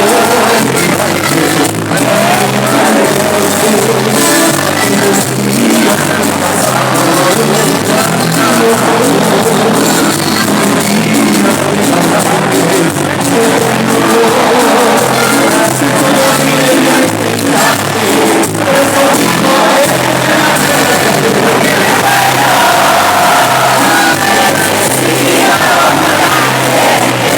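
Live cumbia band music with a lead singer, loud and steady, with crowd shouts and cheers mixed in; it sounds like a large hall.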